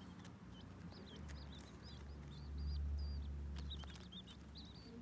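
Baby birds peeping: many short, high, wavering chirps in quick succession. A low rumble swells under them from about a second in to about four seconds in.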